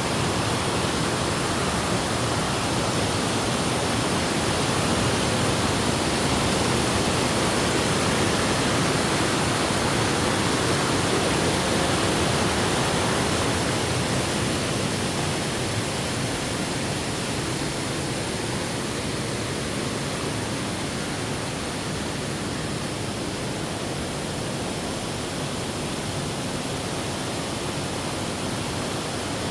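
Waterfall: a steady rush of falling water, a little louder in the first half and easing slightly after about the middle.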